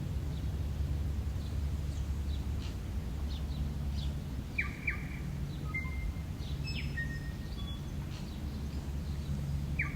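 Wild birds chirping in short, scattered calls, a few in the middle and one near the end, over a steady low outdoor rumble.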